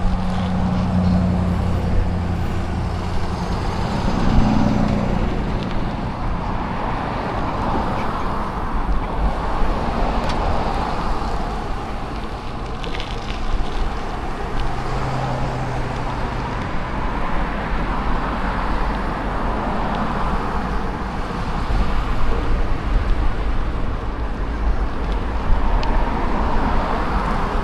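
Road traffic: motor vehicles passing, over a steady low rumble, with an engine hum swelling near the start and again about halfway through.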